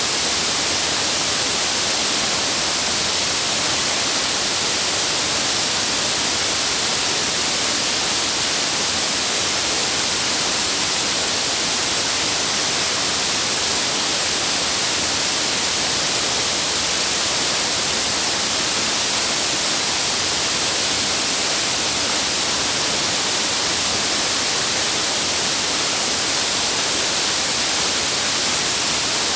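Waterfall: falling water making a steady, even hissing rush with no change across the whole stretch.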